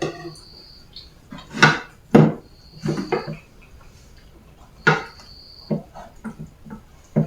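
Plates and cutlery clinking and knocking in a run of separate sharp strikes as food is served out.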